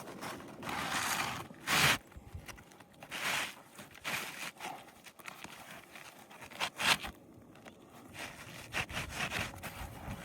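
Roof shingles being scraped and ripped up by hand, a run of irregular rasping scrapes with sharper, louder rips about two seconds and seven seconds in.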